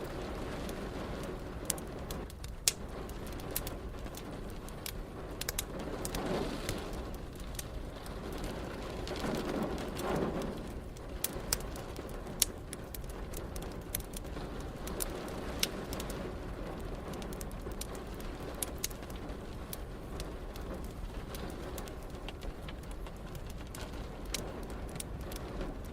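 Wood fire crackling in a fireplace, with frequent sharp pops, over a steady bed of rain. Two louder, longer swells rise around six and ten seconds in.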